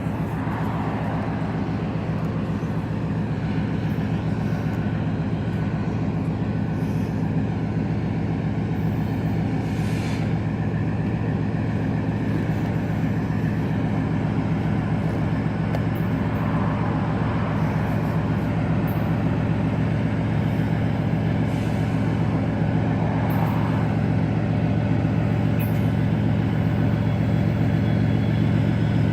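Diesel locomotive engine running with a steady low drone, growing slowly louder.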